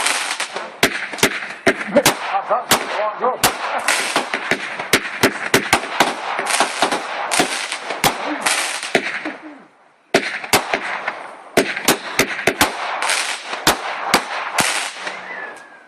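Fireworks barrage going off: rapid, irregular loud bangs over a hissing wash. It breaks off briefly about ten seconds in, starts again, then fades out near the end.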